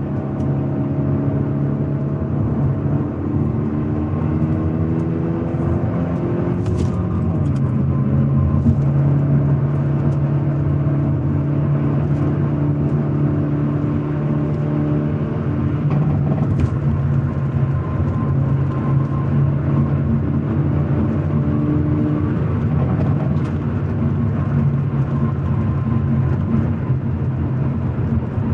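Hyundai Elantra N's turbocharged 2.0-litre four-cylinder engine and exhaust while driving. The revs climb for several seconds and drop suddenly with an upshift about seven seconds in. They then hold fairly steady at cruise over road noise.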